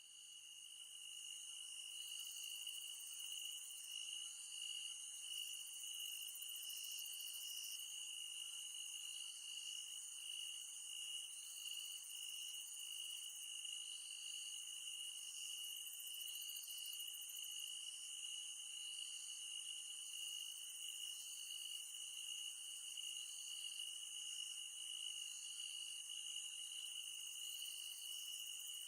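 Insect chorus in the forest, crickets or katydids: a steady high trill with a second insect chirping about once a second above it.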